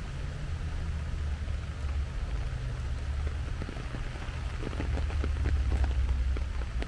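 Steady rain hissing on leaves and a wet paved path, with scattered sharp drops ticking, more of them in the second half. A steady low rumble runs underneath.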